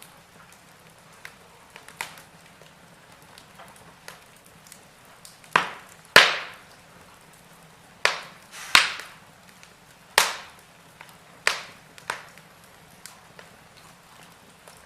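Wood fire crackling in a fireplace: sharp pops and snaps at irregular intervals, several loud ones clustered in the middle, over a faint steady hiss.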